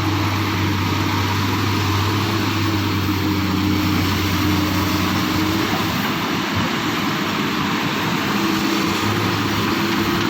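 Excavator's diesel engine running steadily under work. Its engine note changes a little past halfway and steadies again near the end.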